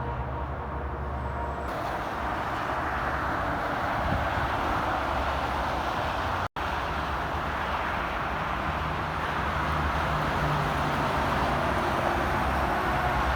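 Interstate highway traffic: trucks and cars passing in a steady rush of tyre and engine noise, with low diesel engine tones underneath. The sound drops out completely for an instant about six and a half seconds in.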